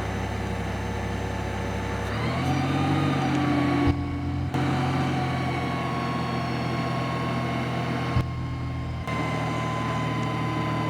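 Propane-fuelled forklift engine running at idle, then picking up to a higher, steady speed about two seconds in, with a faint whine above it and two short clicks.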